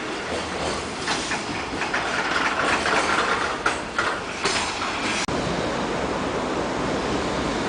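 Container freight train wagons rolling past, their wheels clacking repeatedly over rail joints. About five seconds in the sound breaks off sharply and gives way to a steadier rolling rumble.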